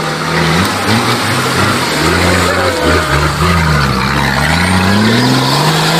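Off-road 4x4's engine revving hard as it climbs a muddy dirt trail, its pitch rising and falling several times under loud mechanical noise.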